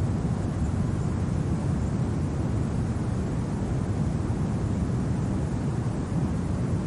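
Steady low rushing wind of a snowy winter ambience, an even rumble without gusts standing out or any distinct sounds.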